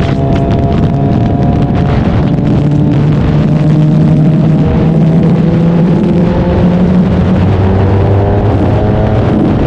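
Suzuki Hayabusa's inline-four engine under way, its pitch climbing steadily as the bike accelerates through a gear, dropping at an upshift about seven and a half seconds in, then climbing again.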